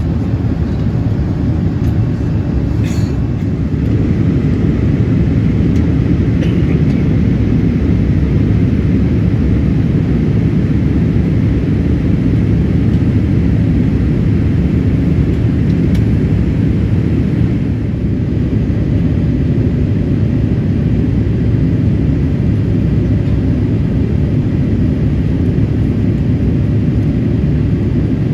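Boeing 787-8 cabin noise on the approach: a steady low rumble of engines and airflow, with a few faint clicks.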